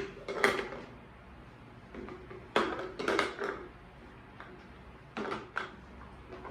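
Light knocks and clatters of household items being handled and set down: a couple near the start, a cluster around the middle and two more near the end.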